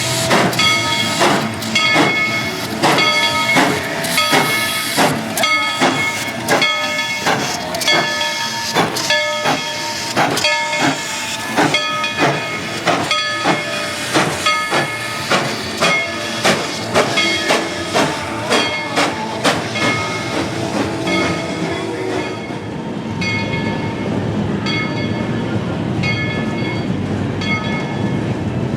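Steam locomotive's bell ringing steadily, about one and a half strikes a second, each strike ringing on, over the hiss of steam. A low rumble of the train rolling grows in near the end.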